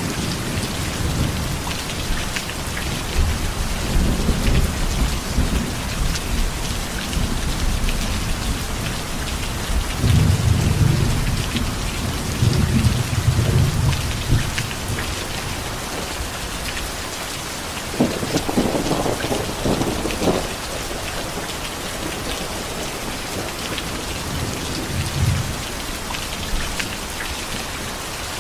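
Heavy rain falling steadily, with thunder rumbling low several times. A sharper, brighter thunderclap comes about eighteen seconds in.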